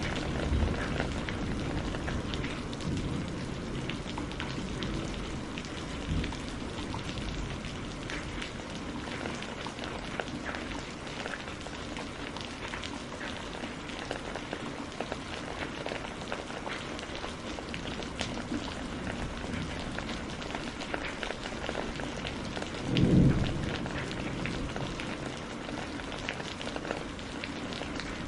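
Steady rain with many small crackles and pops from a burning wood fire. About three-quarters of the way through, a brief low rumble swells up and fades.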